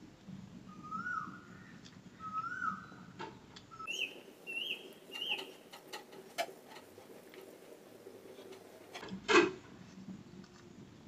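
Birds calling in the background: a short rising whistle repeated three times, then three higher calls about four seconds in. Faint mouth and hand sounds of eating rice by hand, with one loud sharp smack about nine seconds in.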